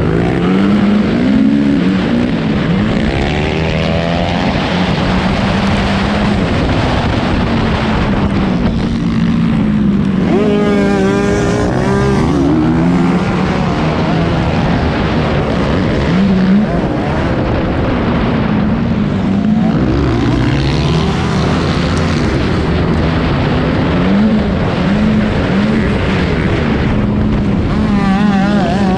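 Honda CRF250R single-cylinder four-stroke dirt bike engine at race pace, revving up and backing off again and again through the gears, over wind noise. There are sharp climbs in revs about ten seconds in and again near the end.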